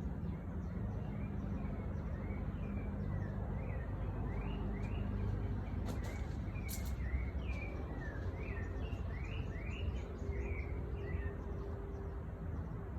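A songbird singing a run of short chirping notes that slide up and down, about two a second, over a steady low rumble of background noise.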